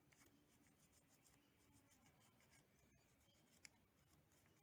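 Faint, quick scratching strokes of a tool cleaning corrosion residue off a motorcycle battery terminal, with a single sharper click about three and a half seconds in.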